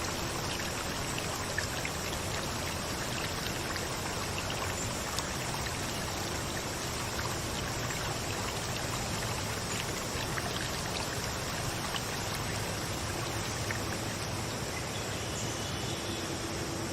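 Steady rush of flowing water, like a stream or small waterfall, with small scattered drips and splashes.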